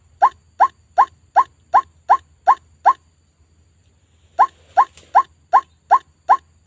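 White-breasted waterhen (ruak-ruak) calls in a lure recording: short notes repeated evenly at a bit under three a second. They break off about three seconds in and start again after a pause of about a second and a half, over a faint low hum.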